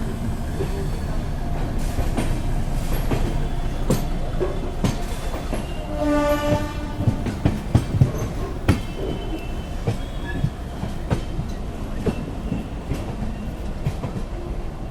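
Train running along the track, a steady rumble with the wheels clicking over rail joints, and one horn blast of about a second roughly six seconds in.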